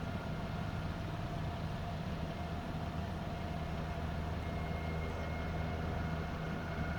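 Firefighting helicopter hovering low over the river to pick up water: a steady low rotor drone with a fine flutter and a constant engine whine.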